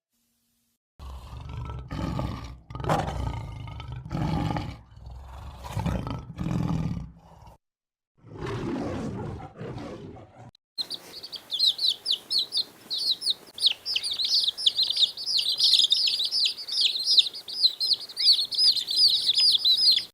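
A lion giving a series of about eight deep roaring calls, each lasting about a second. Then, after an abrupt change, many small birds chirp in a dense, rapid, high-pitched chorus.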